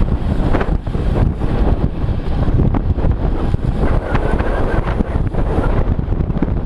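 Heavy wind buffeting the microphone of a moving camera, a steady rush with constant low rumbling.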